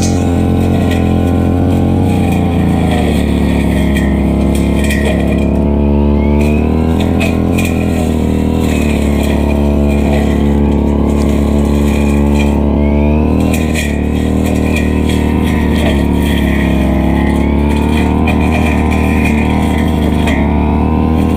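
Stihl FR3001 brushcutter engine running steadily at working speed while cutting grass. Its engine note shifts for about ten seconds starting about three seconds in, then settles back.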